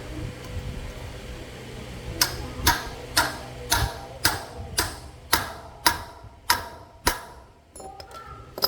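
Repeated sharp metallic knocks, about ten in a row at roughly two a second, each with a short ring, like tapping on metal during mechanical work; a few lighter clicks follow near the end.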